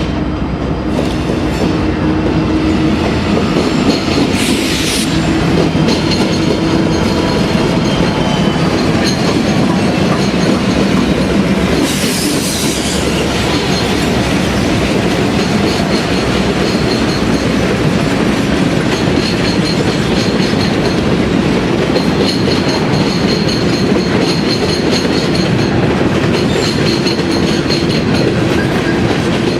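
Freight train cars rolling past, wheels clicking over the rail joints in a steady, loud rumble, with high wheel squeal coming and going.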